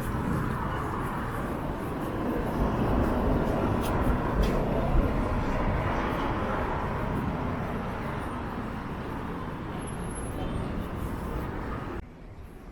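Strong wind buffeting the microphone with a heavy rumble, mixed with road traffic. It swells a few seconds in and drops away suddenly near the end.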